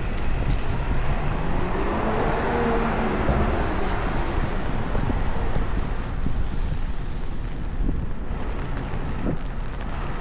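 Typhoon wind buffeting the microphone over a steady hiss of rain, with street traffic; a vehicle's engine is heard briefly about two to three seconds in.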